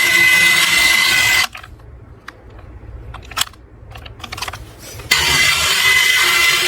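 Toy cars rolling down a small slope with a steady rattling rush, which stops about a second and a half in. A few light clicks and taps of the toys being handled follow, and the rolling rattle starts again at about five seconds.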